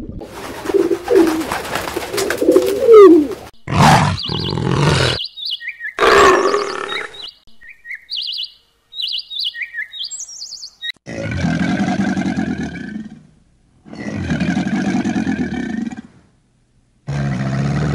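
A string of animal sounds: a run of short, quick bird chirps, then three drawn-out growling roars of about two seconds each.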